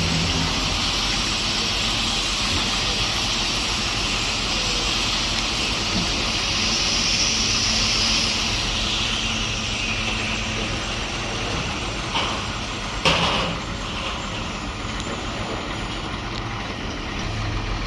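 Heavy construction machinery at a pile-driving site running steadily, with a low engine hum under a bright hiss. A short sharp knock comes about 12 seconds in and a louder one about a second later.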